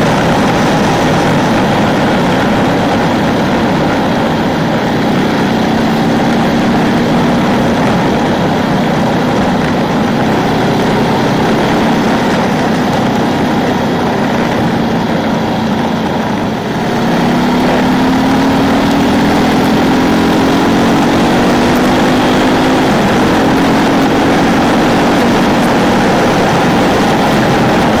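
Ducati 999's L-twin engine running under load on the road. About two-thirds through, the engine note drops briefly, then climbs steadily in pitch as the bike accelerates.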